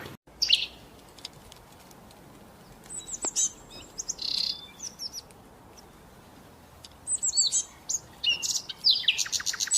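Small bird chirping: short, high, falling notes in scattered clusters, then a rapid run of chirps near the end.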